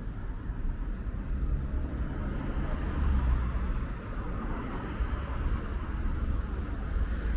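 City street traffic noise: a motor vehicle passing over a steady low rumble, loudest about halfway through.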